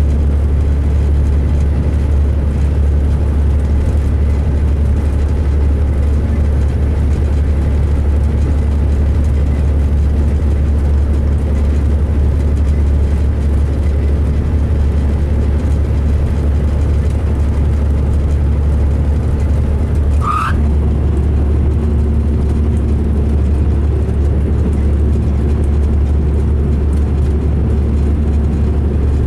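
2005 MCI D4500 coach's diesel engine running steadily under way, a low constant drone that the owner of the recording calls rough. About twenty seconds in, one short rising squeak.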